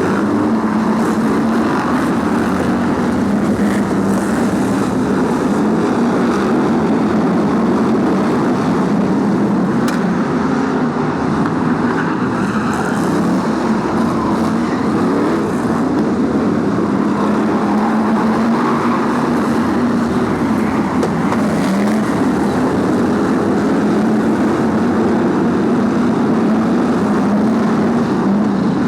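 A pack of BriSCA F1 stock cars racing, their big V8 engines giving a loud, continuous drone. The engine notes rise and fall repeatedly as cars pass and lap.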